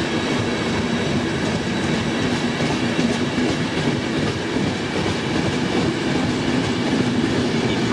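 Passenger train pulling into the station along the platform: a steady rumble of wheels and coaches on the rails, with some clatter over rail joints.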